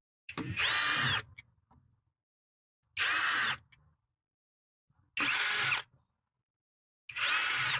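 XCMG 16.8V brushless cordless drill run in four short trigger pulls, about two seconds apart. Each time the motor's whine rises to speed, holds briefly and winds down.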